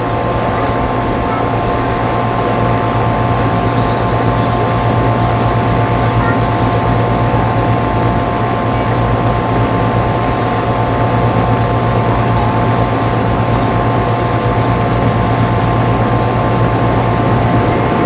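Steady, loud mechanical drone with a low hum and several high held tones, unchanging throughout.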